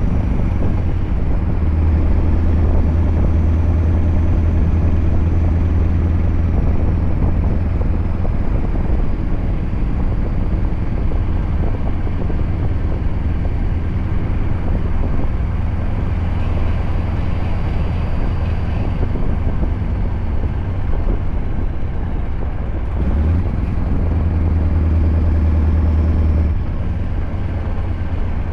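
Scania R580 V8 truck engine with a straight-piped exhaust, running steadily as a deep drone. It grows louder for a few seconds near the end, then drops back abruptly.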